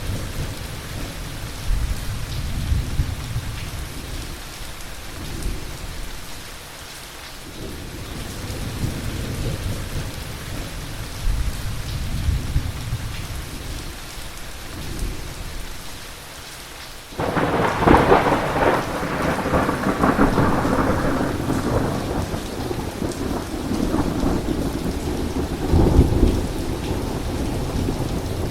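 Heavy rain falling steadily through a thunderstorm, with distant thunder rumbling low. About two-thirds of the way in, a sudden loud thunderclap breaks and rolls on for several seconds, with another rumble swelling near the end.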